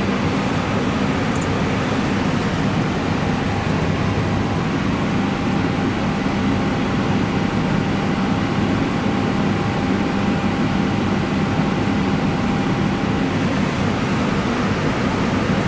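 Steady hum and whoosh inside an Airbus flight deck with the APU running and aircraft electrical power on. A faint steady whine comes in about five seconds in and drops away near the end.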